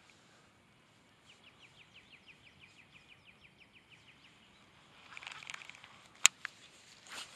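A faint trill of evenly spaced short chirps, about six a second, lasting about three seconds, typical of a small songbird. Later comes a rustle, then a sharp click, which is the loudest sound, and another brief rustle near the end.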